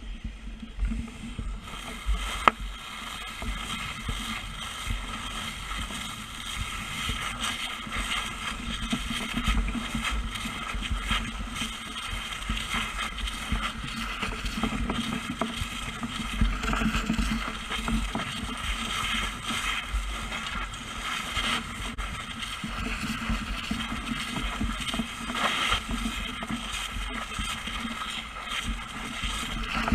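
A steady engine running, with an even hiss over it and no pauses.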